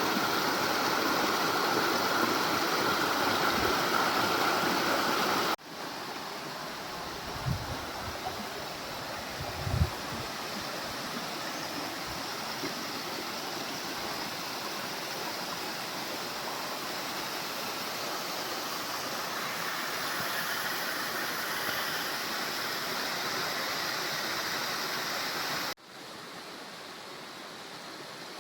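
Steady rush of falling water at a waterfall. It drops suddenly in level twice, about five seconds in and near the end, with a couple of brief low thumps a few seconds after the first drop.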